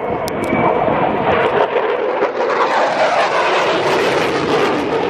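An aircraft flying past: a steady, loud engine noise that grows brighter around the middle and eases toward the end, with two brief clicks just after the start.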